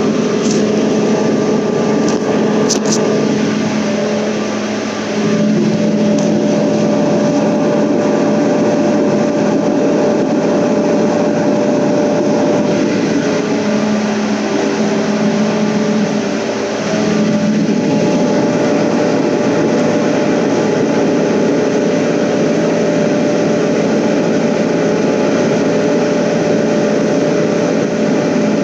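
Trailer refrigeration (reefer) unit running with a steady, loud mechanical hum, heard from inside the trailer.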